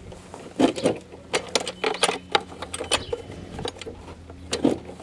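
Metal hand tool clicking and clinking against bolts in irregular quick strokes while unbolting a lawn mower engine, over a steady low hum.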